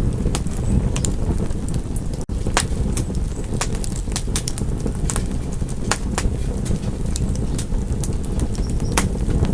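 Wood fire crackling in a fireplace: sharp, irregular pops and snaps, several a second, over a steady low rumble of burning. A momentary dropout cuts the sound a little after two seconds in.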